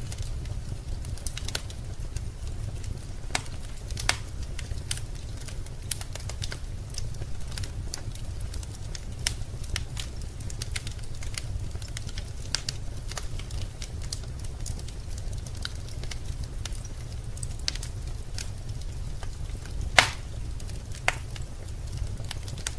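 Wood fire crackling in a fireplace: irregular sharp snaps and pops over a low steady rumble, with one loud pop about twenty seconds in.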